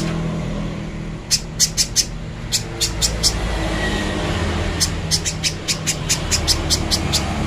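A spiderhunter (pijantung pisang) calling in rapid runs of sharp, high chips, about six a second, in three bursts separated by short pauses, over a steady low hum.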